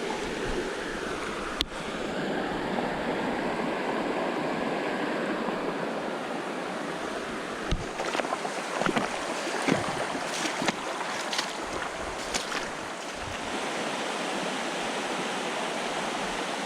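Steady rush of flowing creek water, with a few light clicks and knocks partway through.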